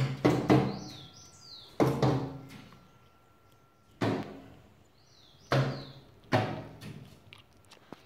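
A bird repeatedly striking a window pane: about six sharp thumps a second or two apart, each followed by a short ringing of the glass and frame. Short high chirps sound between the strikes, about a second in and again near the middle.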